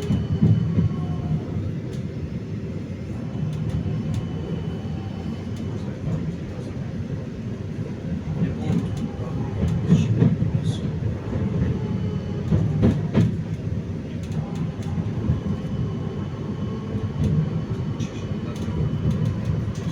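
71-931M Vityaz-M tram heard aboard while running: a steady low rumble of wheels on rails, with a few sharp knocks over rail joints roughly halfway through and faint whining tones above the rumble.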